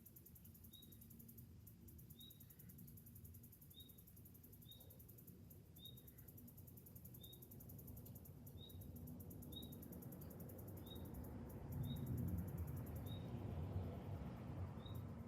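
Cicadas buzzing in a steady, high, pulsing chorus, with a short high chirp repeated about once a second. A low rumble builds up in the second half and becomes the loudest sound near the end.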